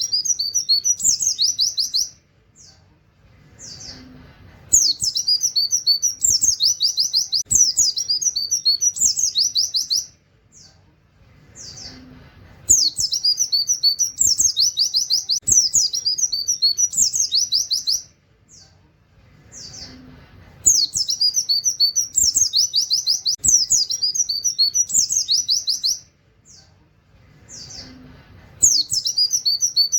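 Pleci (white-eye) song: a fast, high twittering run packed with canary-like 'wit wit' phrases, lasting about five seconds and repeating every eight seconds, with a few short single notes in the pauses between runs.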